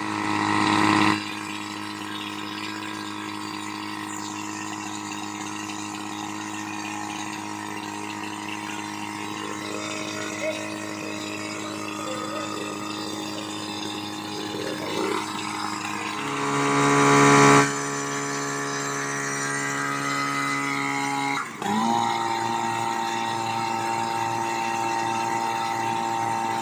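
Portable fire-pump engine running steadily. It surges louder twice, briefly about a second in and for a second or so about two-thirds through, then dips for a moment and settles again.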